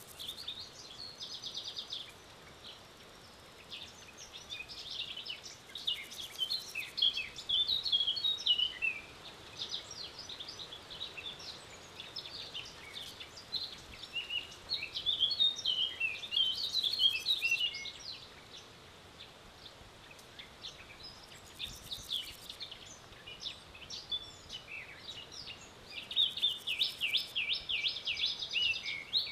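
Birds singing: four bouts of quick chirping song, a second to several seconds long, with quieter stretches of faint background noise between them.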